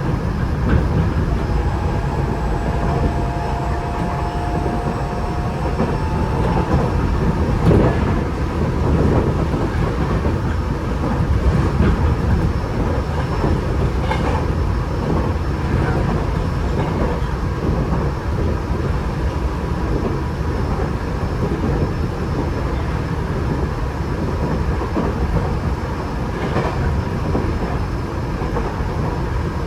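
Onboard running noise of a Tokyo Metro 8000 series train car under way between stations: a steady rumble of wheels on rail, with a few faint clacks over the rail.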